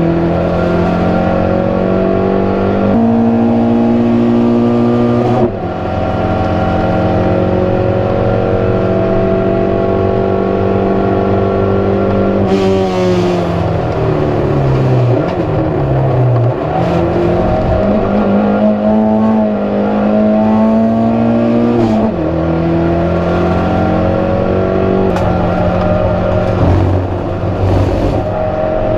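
Proton Saga race car's four-cylinder engine running hard at racing revs, its pitch stepping up and down several times as gears change. Around the middle the revs fall steadily for a few seconds, then climb again.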